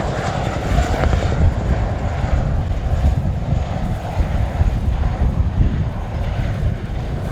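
CH-47J Chinook tandem-rotor helicopter flying overhead. Its rotor and engine noise is loud and steady, heaviest in the low end.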